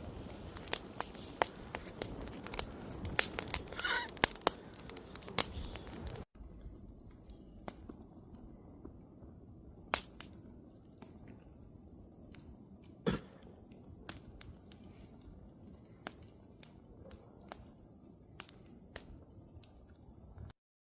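Wood campfire crackling and popping, with frequent sharp snaps at first and a brief whistle about four seconds in. About six seconds in the sound drops abruptly to a quieter fire with sparser pops, then cuts off just before the end.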